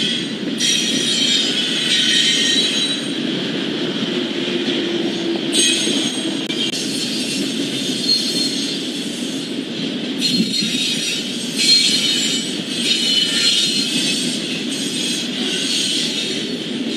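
Double-stack intermodal container cars of a freight train rolling past with a steady low rumble, broken every few seconds by stretches of high-pitched metallic wheel squeal.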